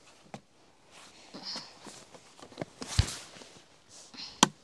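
Footsteps and scuffs of hikers climbing a rough trail, with a heavier thud about three seconds in and a sharp click near the end.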